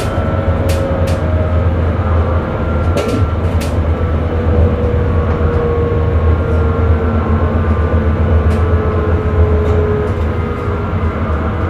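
Electric Sprinter train running, heard from the driver's cab: a steady low rumble with a thin motor whine that slowly falls in pitch. A few sharp clicks from the wheels on the track come in the first four seconds.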